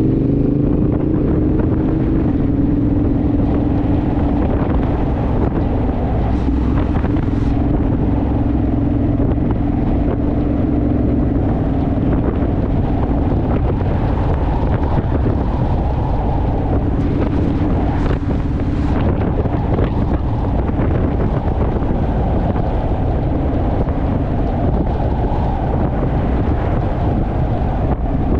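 Honda Rebel motorcycle's parallel-twin engine running at a steady cruise, with wind rushing over the microphone.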